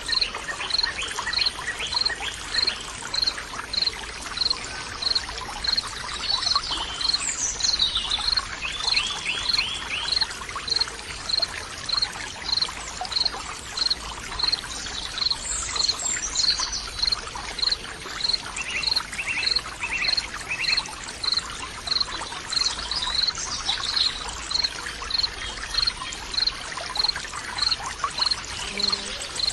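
Nature soundscape of running water with a high, short chirp repeating evenly a little over once a second, and scattered bird calls over it.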